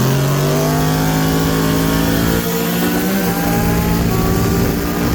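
Car engine accelerating in one long pull, its pitch climbing slowly and steadily.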